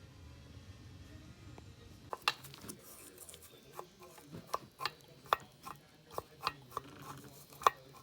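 A low hum, then from about two seconds in a dozen or so irregular sharp clicks and clinks of hard objects being handled, the loudest near the end.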